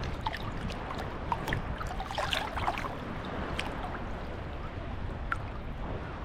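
Small sea waves washing at the shoreline: a steady wash broken by many small splashes and trickles.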